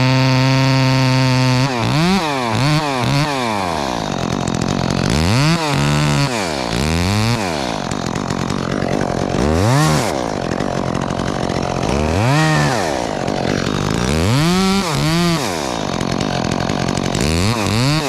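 Two-stroke chainsaw engine held at a steady high speed for about two seconds, then revved up and dropped back over and over.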